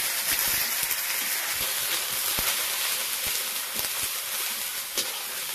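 Chicken pieces frying in a black metal kadai: a steady hissing sizzle, with scattered clicks and scrapes of a metal spatula stirring against the pan and one sharper click about five seconds in.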